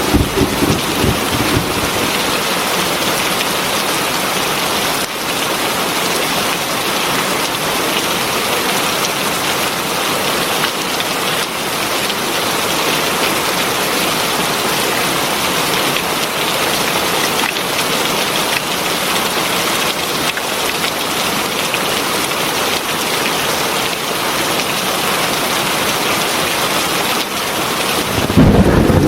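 Heavy rain falling steadily in a dense, even hiss. A low rumble of thunder dies away in the first second or two, and another begins suddenly just before the end.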